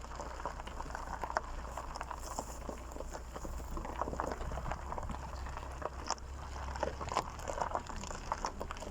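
Steps on dry, stony ground: a run of irregular crunching clicks, with a steady low rumble underneath that fades about seven seconds in.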